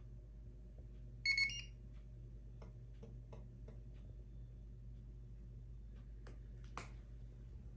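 Electronic beep from a Bosch dishwasher's control panel: one short chirp of about half a second that steps up in pitch near its end, over a steady low hum.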